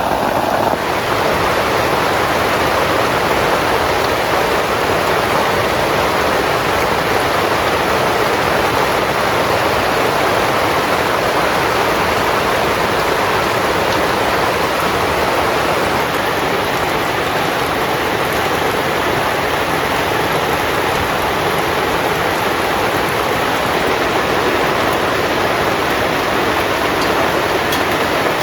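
Heavy rain falling steadily, a dense even hiss. A brighter layer of sound carried over from just before stops about a second in.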